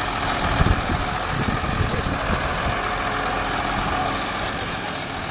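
Diesel engine of a 150 hp farm tractor running steadily, with a brief louder moment about half a second in.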